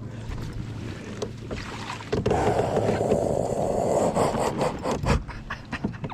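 Scraping, knocks and clatter on a fishing kayak as a just-landed largemouth bass is handled aboard, with a louder rustling stretch through the middle.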